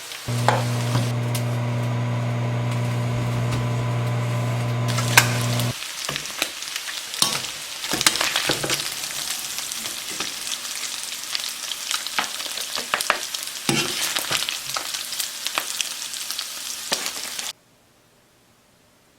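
Potatoes frying in a pan, sizzling, with scraping and clicking as they are stirred. For the first five or so seconds a loud steady hum sits over the sizzle, and then it stops. The sound cuts off abruptly near the end.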